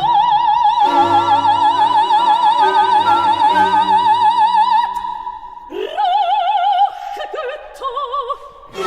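Opera singing with orchestral accompaniment: a voice holds one long high note with wide vibrato for about five seconds, then sings shorter phrases.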